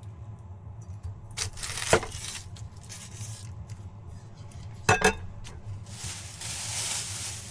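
Kitchenware being handled during meal prep: sharp clinks and knocks, a few about a second and a half in and a pair around five seconds, over a steady low hum. A soft hiss comes in near the end.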